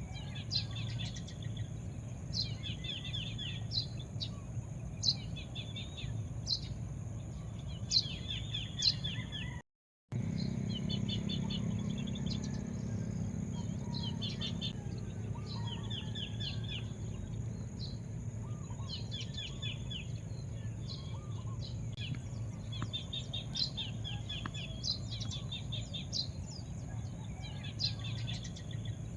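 Songbirds chirping over and over in short, quick phrases, over a steady low rumble. The sound drops out completely for a split second about ten seconds in.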